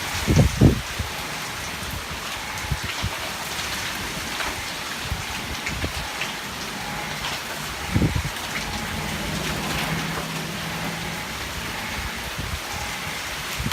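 Heavy tropical storm rain pouring down steadily, with a few dull low thumps near the start and again about eight seconds in.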